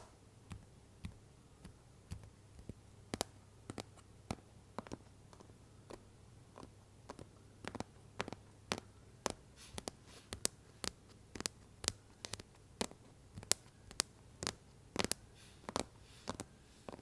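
Apple Pencil tapping on an iPad cover: a run of sharp, irregular taps that come closer together, about two a second, in the second half, with brief scratching strokes between them.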